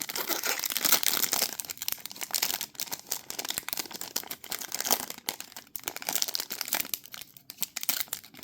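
Plastic trading-card pack wrapper crinkling and tearing as it is opened by hand, an irregular crackle with no steady rhythm.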